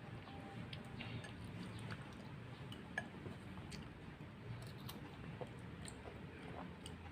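Quiet eating sounds: scattered light clicks of utensils against a bowl of boiled instant noodle soup, the sharpest about three seconds in.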